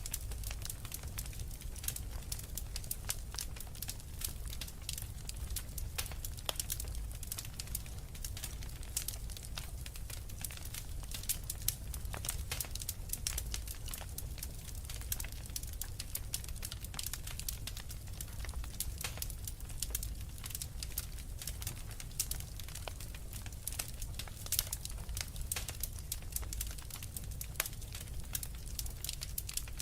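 Wood fire burning in a fireplace: dense, irregular crackling and popping of burning logs over a low, steady rumble of the flames.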